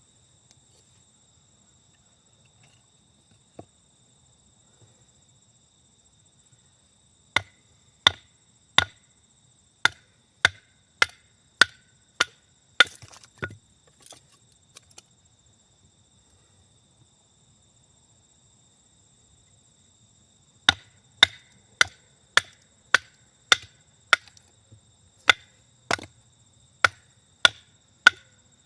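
Wood being chopped with a hatchet or axe: two runs of sharp, evenly paced strikes, a little under two a second. The first run of about ten starts some seven seconds in; the second, of about a dozen, starts about twenty seconds in. A steady high insect trill, like crickets, runs underneath.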